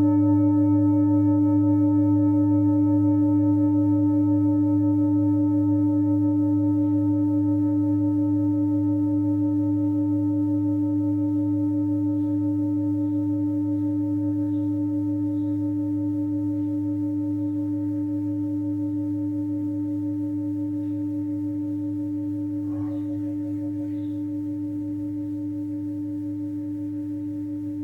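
Tibetan singing bowl ringing out after being sounded, one long sustained tone with higher overtones, slowly and smoothly fading with a gentle pulsing.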